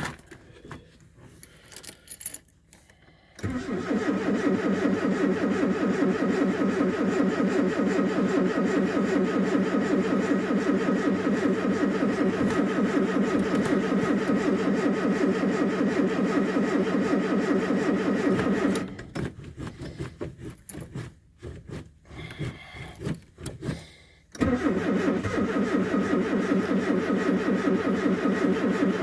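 A vehicle engine cold-starting about three and a half seconds in and running steadily. It cuts out about nineteen seconds in, then starts again about five seconds later and runs on.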